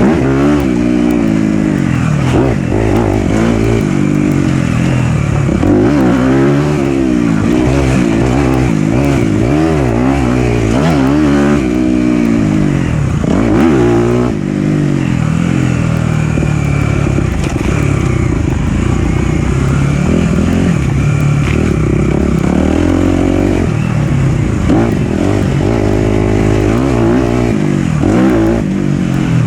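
Four-stroke single-cylinder dirt bike engine, likely the Suzuki RM-Z250, riding a trail and revving up and down over and over as the throttle opens and closes and the rider shifts gears.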